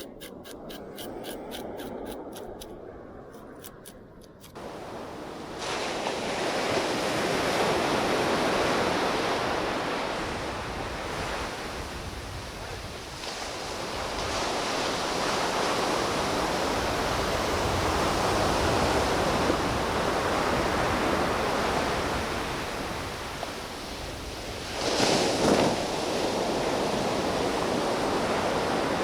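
Surf breaking on a beach with wind on the microphone, a steady rushing wash that swells louder about 25 seconds in. A run of faint, rapid ticks comes before the surf noise sets in during the first few seconds.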